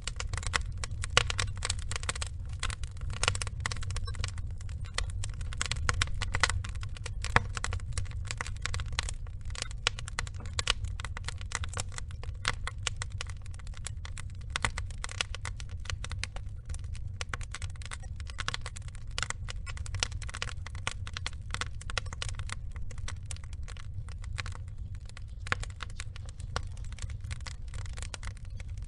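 Log fire burning, crackling with dense, irregular small pops and a few sharper snaps over a steady low rumble.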